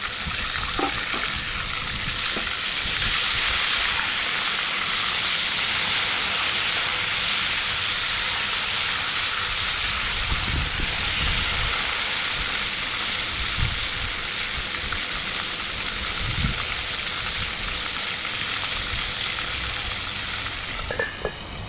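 Food frying in hot oil: a steady, loud sizzle, with a few soft knocks in the second half.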